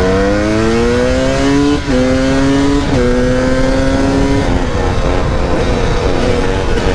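250cc two-stroke dirt bike engine accelerating through the gears. Its pitch climbs, then drops sharply at upshifts about two and three seconds in, and the engine holds a steady speed after that.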